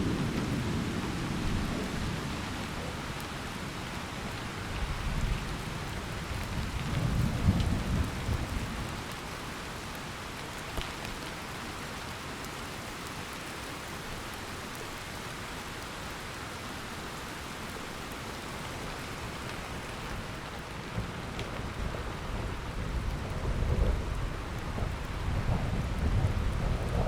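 Steady rain with rolling thunder: a rumble dies away at the start, another rolls in about a quarter of the way through, and a third builds near the end.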